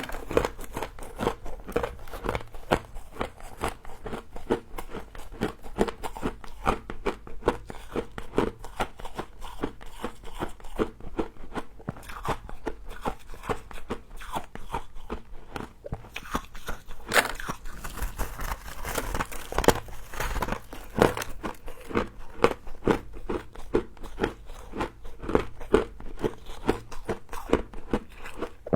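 Close-up crunching and chewing of frost, a quick irregular string of crisp crunches with no pause.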